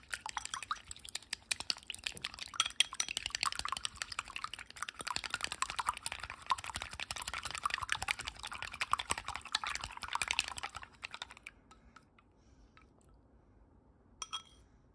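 Wooden chopsticks beating eggs in a glass bowl: a fast, steady run of light clicks against the glass that stops about eleven seconds in. A brief clink comes near the end.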